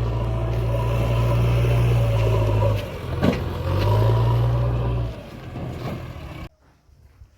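Heavy diesel engine of earthmoving machinery running with a steady low drone. It drops away briefly about three seconds in, with a single knock, comes back, then fades and cuts off abruptly near the end.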